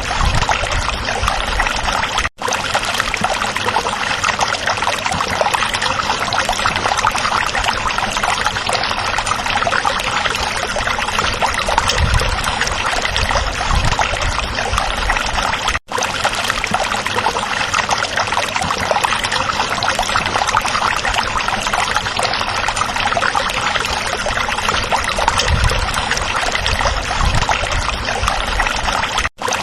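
Stream water flowing and babbling steadily over rocks. The sound drops out to silence for an instant three times.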